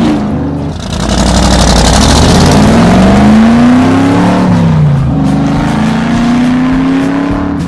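Race-car engine sound effect revving, its pitch climbing twice with a brief drop between, with a rushing noise near the start.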